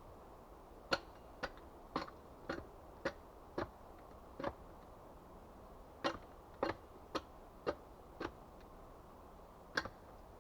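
A series of sharp, short knocks, about two a second, in two runs with a brief pause between them and another knock near the end.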